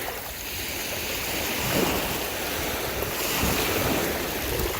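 Surf washing on the beach, a steady hiss of waves, with wind buffeting the microphone in low rumbles.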